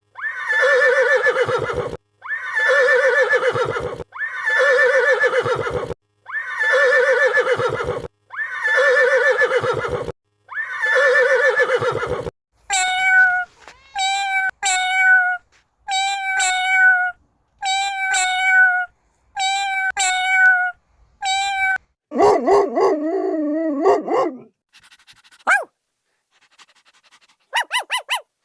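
A series of different domestic animal calls, one kind after another: six identical long calls repeated about every two seconds, then a run of shorter, higher calls in quick pairs, then a single wavering call, and a few short calls near the end.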